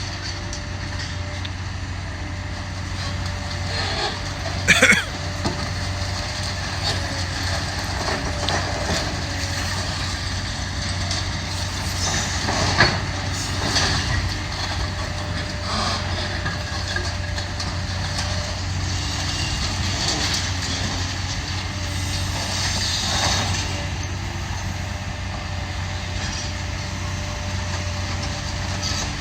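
Demolition excavator's diesel engine running steadily, with a few sharp clanks and crashes of breaking debris, the loudest about five seconds in and another near thirteen seconds.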